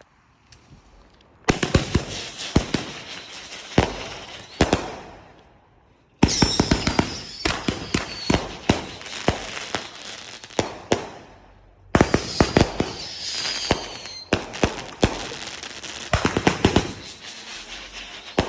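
Brothers "Hydrogen Bomb" 36-shot firework cake firing in three long volleys of rapid sharp shots and bursts with crackling, each with a pause of about a second between. Falling whistles sound at the start of the second and third volleys.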